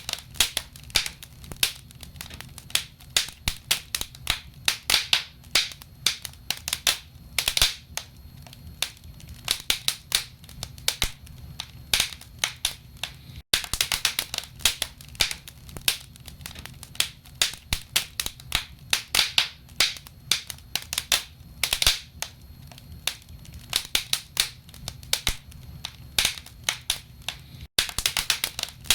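Wood fire burning in a fireplace, its logs crackling with dense, irregular snaps and pops over a steady low rumble. The sound cuts out for a moment twice, once midway and once near the end.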